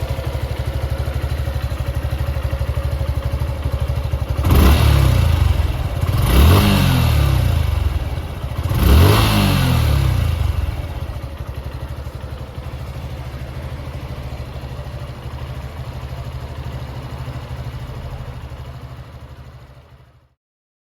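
Suzuki Gixxer 150 single-cylinder engine idling, blipped three times with sharp revs that climb and fall back, then idling steadily until the sound fades out near the end.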